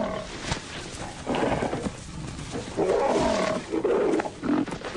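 Lions growling in several harsh bursts, each under a second long, that stop abruptly at the end.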